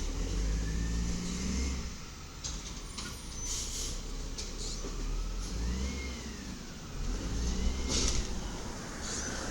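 Side-loader garbage truck's engine running and revving up and down, with short hisses about a third of the way in and near the end.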